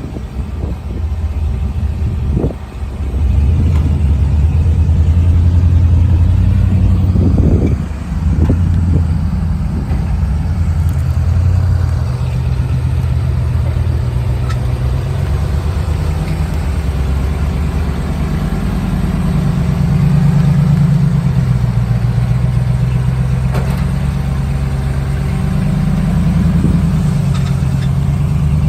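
Dodge LA360 small-block V8 engine of a 1979 Dodge truck running, its engine speed rising and falling with the throttle, with a few knocks in the first several seconds.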